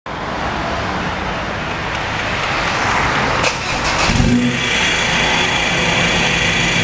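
Ford Ranger's 2.2-litre diesel engine heard through a cat-delete downpipe and mid muffler. A sharp click comes about halfway, then a strong low surge as the engine note rises, settling into a steady low drone.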